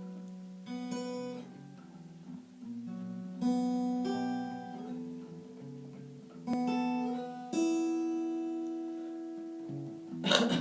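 Acoustic guitar playing a slow intro: single strummed chords a second or more apart, each left to ring out and fade. Near the end comes a short scratchy noise, the loudest moment.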